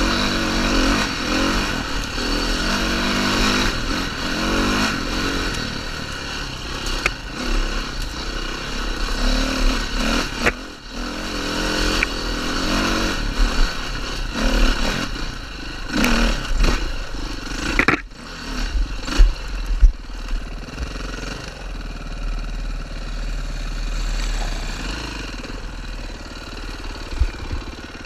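KTM 530 rally bike's single-cylinder four-stroke engine running under way off-road, the revs rising and falling. Sharp knocks and rattles come through it, the loudest a little past the middle, and the engine settles to a steadier, quieter run near the end.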